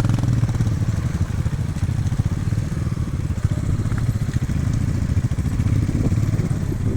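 Motorcycle engine running steadily, a fast even putter of firing pulses.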